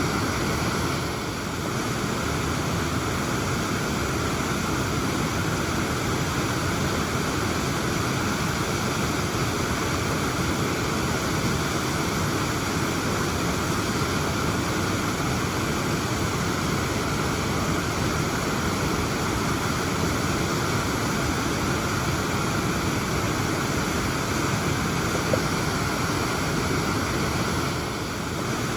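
Whitehorse Falls waterfall pouring steadily: an even, unbroken rush of falling water, dipping slightly in loudness about a second in and again near the end.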